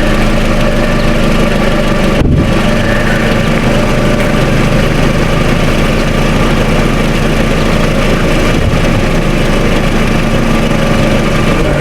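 Steady engine hum and road noise heard inside a moving car's cabin, with a momentary break about two seconds in.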